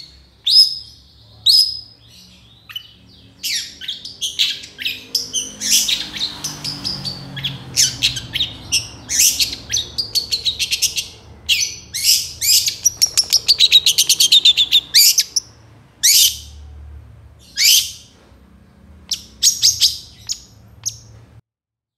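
Long-tailed shrike (cendet) singing: a varied string of sharp, high chirps and quick chattering runs, densest in the middle, cutting off abruptly near the end.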